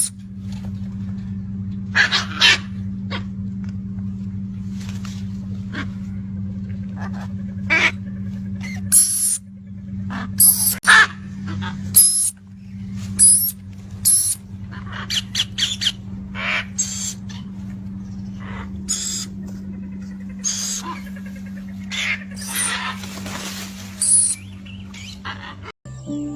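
Pet birds calling in short, scattered squawks and chirps over a steady low hum.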